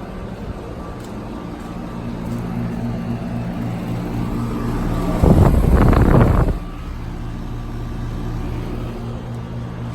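Residential central air conditioner condenser units running with a steady electrical-mechanical hum. A louder rushing noise swells about five seconds in and drops away after a second and a half.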